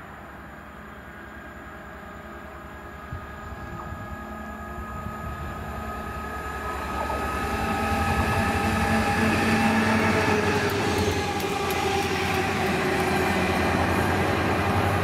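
A train approaching on the line, growing louder over the first half and then running loud and steady as it passes. Several steady high tones ride over the rumble.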